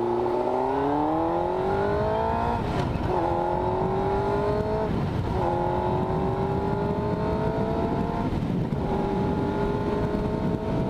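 Motorcycle engine accelerating under the rider and shifting up through the gears: the pitch climbs, falls suddenly at each of three upshifts, then climbs again, over steady wind and road rush.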